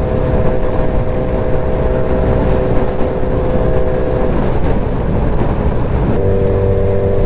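A 2003 Yamaha R1's inline-four engine with aftermarket exhaust cruising at a steady pitch under a heavy rush of wind and road noise. The engine note fades out about four seconds in and comes back about two seconds later, a little lower.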